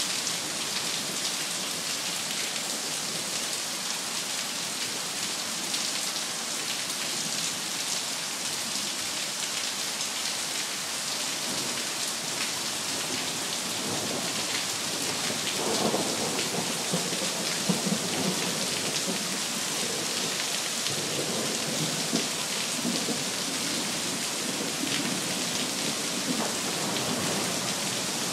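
Steady rain pouring down in a thunderstorm, with thunder rumbling through the second half.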